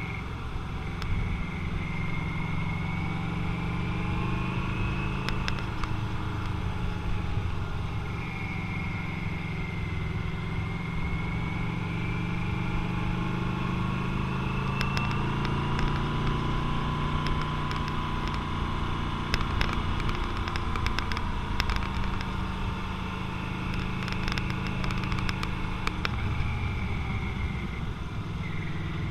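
Motorcycle engine running under way, its note slowly rising and falling, with a scatter of sharp clicks in the second half.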